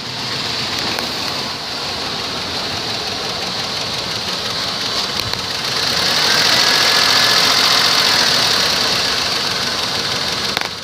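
2001 Chevrolet Suburban's V8 engine running with the transmission in drive. It is steady, grows somewhat louder about six seconds in, and eases off again near the end.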